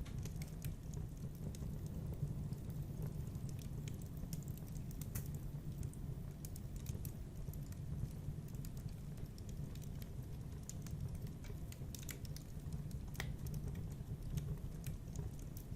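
Fireplace fire crackling: irregular sharp snaps and pops over a steady low rush.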